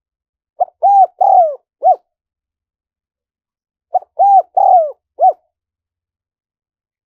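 Spotted dove cooing: two identical calls about three seconds apart, each a short note, two longer arched coos and a short closing note.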